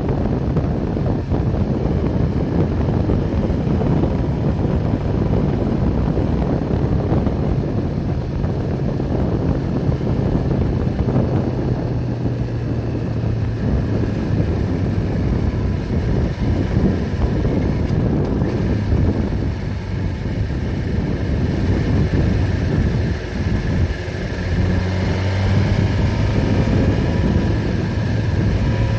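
An engine running steadily, its low hum stepping in pitch a few times, with wind buffeting the microphone.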